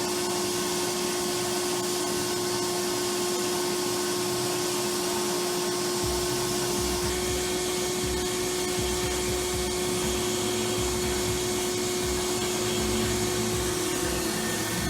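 A motor-driven machine running at constant speed: a steady hiss with a constant whine.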